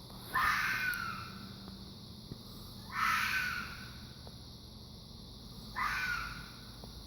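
Fox calling: three hoarse, scream-like calls about three seconds apart, each about a second long and falling slightly in pitch.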